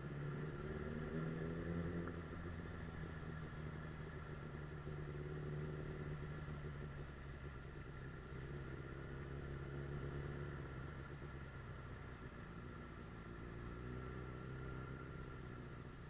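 Suzuki GSF 600 Bandit S inline-four motorcycle engine running on the move, its pitch rising and falling gently as the throttle and speed change.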